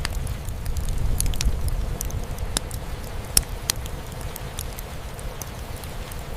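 Fireplace crackling, irregular sharp pops and snaps from burning wood, over a steady low rumble of rain drumming on a roof. One pop about halfway through stands out louder than the rest.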